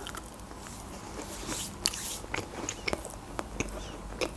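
A person chewing a mouthful of quiche with shortcrust pastry close to the microphone, with scattered small mouth clicks.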